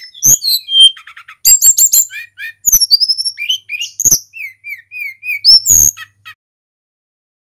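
Tledekan gunung, a Cyornis blue flycatcher, singing a fast, varied song of high whistles, quick trills and down-slurred notes. The song stops abruptly about six seconds in.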